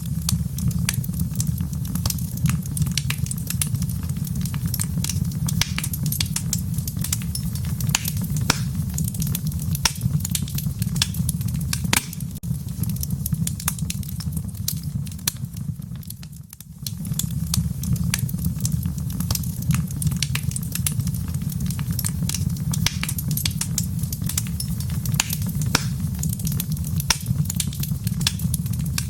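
Wood fire crackling in a fireplace: a steady low rumble of burning with many sharp pops and snaps scattered throughout. The sound dips briefly a little past halfway.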